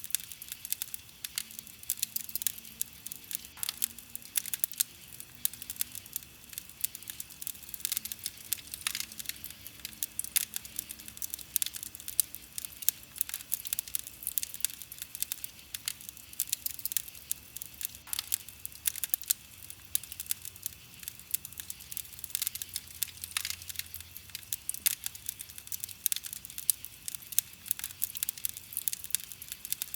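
Wood campfire burning, with many small irregular pops and snaps from the burning wood over a soft hiss.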